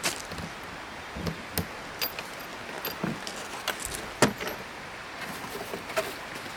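Scattered light clinks and knocks, as of objects being handled and set down, the sharpest about four seconds in, over a steady background hiss.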